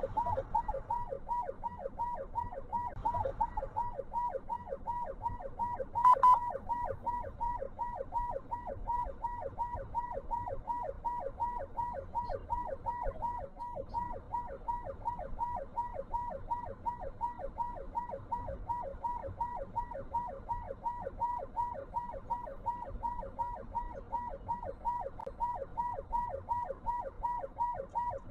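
Emergency vehicle siren sounding a fast yelp, its pitch sweeping up and down several times a second without a break. A short, loud crackle cuts in about six seconds in.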